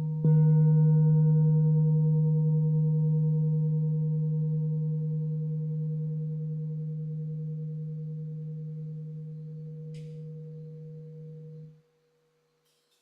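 Singing bowl struck once while the previous toll is still ringing, then sustaining a deep hum with several steady overtones that fade slowly. The ring cuts off abruptly near the end.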